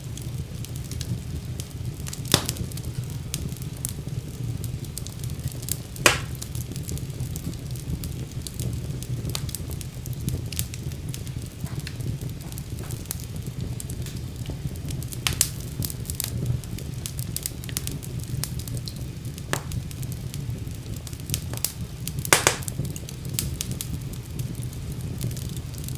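Wood fire burning in a fireplace: a steady low rumble of flames with frequent irregular crackles and pops, a few sharper pops standing out about 6, 15, 19 and 22 seconds in.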